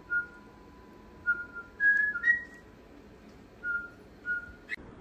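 Whistling: about eight short, pure notes, most on one pitch, with a few slightly higher notes in the middle.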